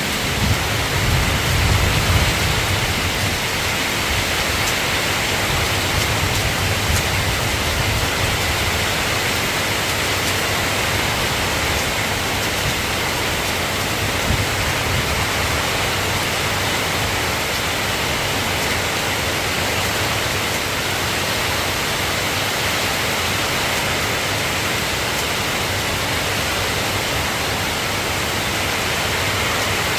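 Steady rain hiss, with a low thunder rumble dying away over the first few seconds.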